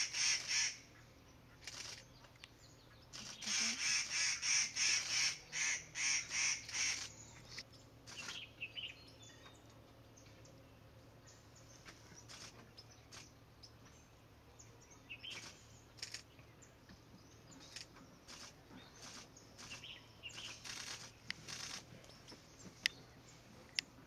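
Harsh bird calls repeated about twice a second: a short run at the start, then a longer run from about three to seven seconds in. After that come only scattered faint chirps and a few sharp ticks.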